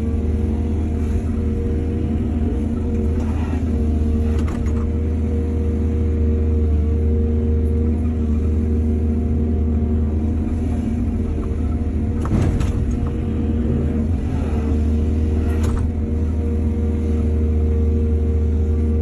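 Heavy diesel engine of earth-moving machinery running steadily under load, with a few brief knocks of the working equipment.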